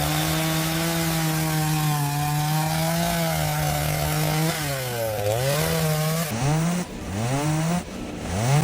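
Chainsaw running at high speed, cutting through pallet wood. It holds a steady pitch for the first half, then its pitch sags and climbs back several times as it bogs under load in the cut and revs up again.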